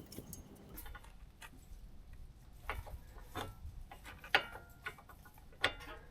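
Metal tools and parts being handled: scattered light clicks and taps, with two sharper metallic clinks about four and five and a half seconds in, the first ringing briefly.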